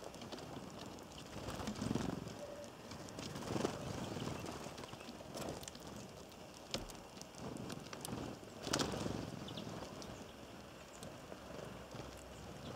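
Birds at a bird feeder: scattered sharp taps from pecking and landing on the feeder, with a pigeon's low cooing swelling up a few times.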